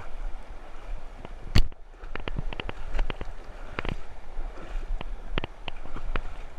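Rushing river water, with a string of short sharp knocks and splashes and one loud knock about one and a half seconds in; wind rumbles on the microphone.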